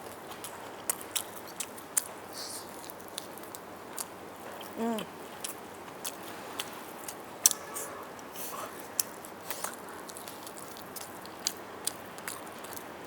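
Close-up eating sounds of roast chicken: biting and chewing with many sharp clicks and wet smacks at irregular moments. About five seconds in there is a short hummed voice sound.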